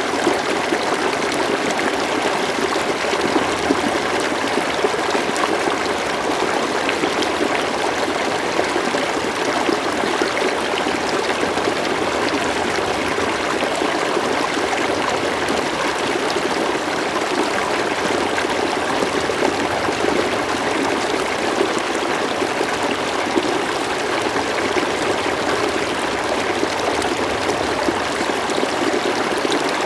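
River water flowing steadily over rocks, a continuous rushing and burbling with small splashes.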